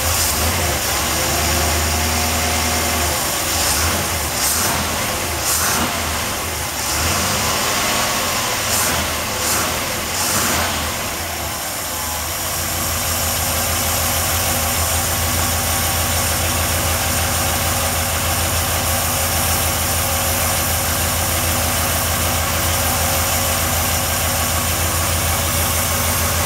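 Chevrolet 383 stroker small-block V8 with a four-barrel carburetor idling at curb idle, warmed up and off the fast-idle cam after a cold start. The idle is a little uneven in the first half and steady from about halfway on.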